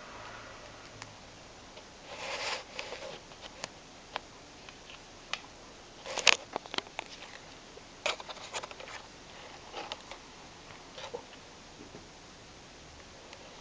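A cat playing under a low sofa: scattered rustles, clicks and light knocks as it moves and scrabbles, with a rustle about two seconds in and the loudest cluster about six seconds in.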